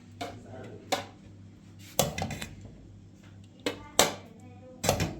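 Sharp knocks and clatters of hard objects being handled, about five at irregular intervals, one followed by a brief ringing, over a low steady hum.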